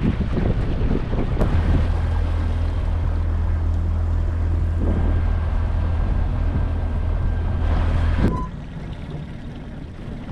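Small fishing boat's outboard motor running under way, a steady low hum with wind buffeting the microphone. The motor noise drops off sharply about eight seconds in.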